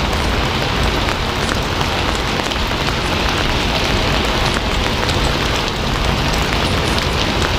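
Steady rain falling: an even hiss with many small raindrop ticks throughout.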